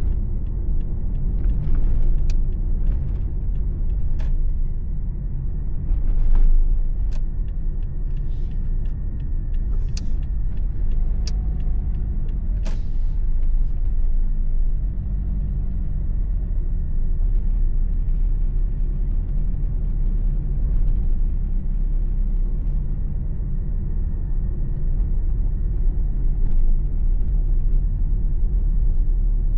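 Car engine and tyre road noise heard from inside the cabin while driving, a steady deep rumble. A few sharp clicks and ticks come through in the first half.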